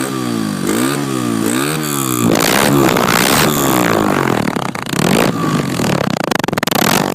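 Honda XR80's small single-cylinder four-stroke engine being revved: quick throttle blips rising and falling in pitch for about two seconds, then held at higher revs with a rough, raspy note until near the end.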